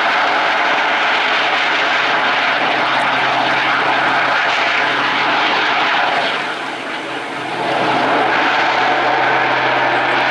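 A jet-augmented Pitts aerobatic biplane flying its display, its piston engine, propeller and jets running loud and steady. The noise drops briefly about six and a half seconds in, then comes back to full strength.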